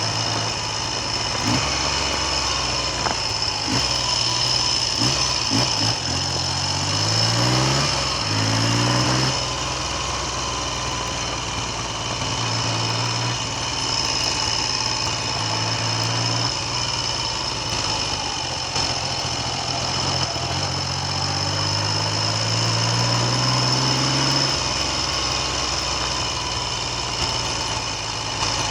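Triumph Trident motorcycle's three-cylinder engine running on the move, rising in pitch as it pulls through the revs twice, about a quarter and about three-quarters of the way through, with wind noise on the microphone throughout.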